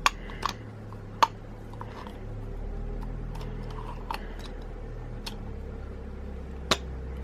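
Light clicks and taps from the plastic and metal parts of a manual coffee grinder being handled and fitted together: a handful of separate clicks over a steady low hum.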